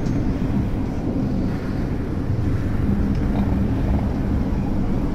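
Steady running rumble of a moving train, heard from inside the carriage.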